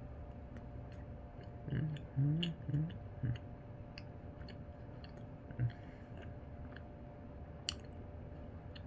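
A person chewing a bite of caramel mini cinnamon roll, with soft mouth clicks and smacks scattered through. There are a couple of short, low murmured sounds about two seconds in and a sharper click near the end.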